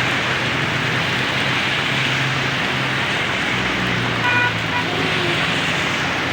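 Heavy rain pouring steadily, with road traffic running through it and a brief car horn toot a little over four seconds in.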